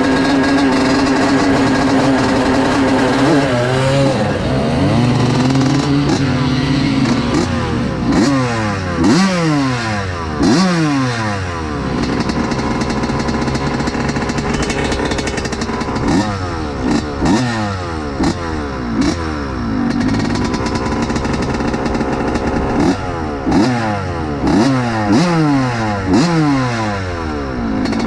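Several vintage motocross bikes racing. Their engine pitch holds steady in stretches and in between sweeps up and down again and again as the throttle opens and shuts.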